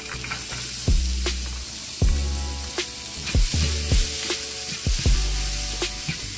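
Diced green bell pepper sizzling in oil in a hot nonstick frying pan while a spatula stirs it, an even crackling hiss. Background music with a steady beat plays underneath.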